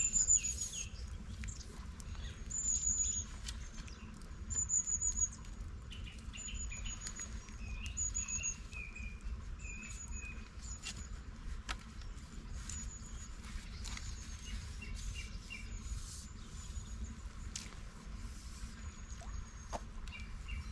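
Small birds chirping, with short high-pitched trills repeated every second or two and some lower chirps, over a low steady background noise.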